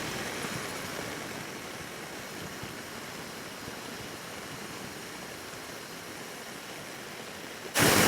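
Steady rush of wind and road noise from a motorcycle at highway speed, with no clear engine note. The rush jumps suddenly louder near the end.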